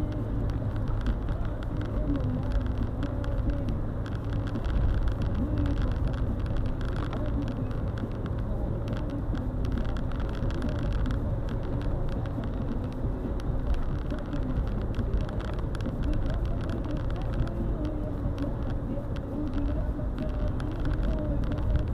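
Car driving on a snowy road, with a steady hum of engine and tyres inside the cabin.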